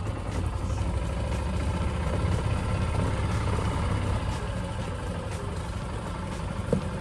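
Golf cart running steadily as it drives along, a continuous low mechanical drone.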